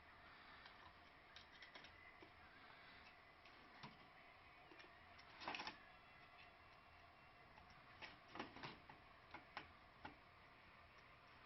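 Faint, scattered clicks and taps over a low steady hiss. A louder cluster comes about halfway through, and a quick run of sharp ticks follows near the end.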